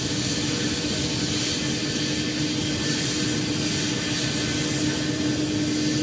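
Jet airliner's engines running, a steady rushing noise with a constant low hum through it.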